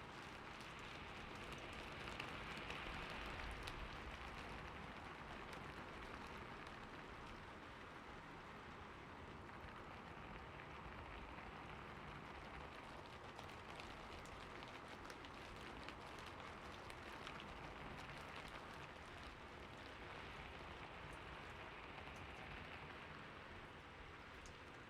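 Gentle rain falling steadily: a soft, even hiss dotted with fine patter of drops, swelling slightly a few seconds in.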